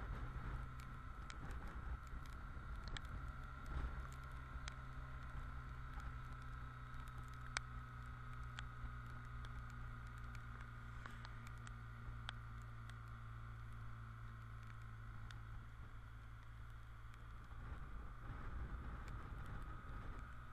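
BMW R1200GS boxer-twin engine running steadily while riding, with a steady hum and wind noise. Scattered sharp ticks of raindrops hitting the camera.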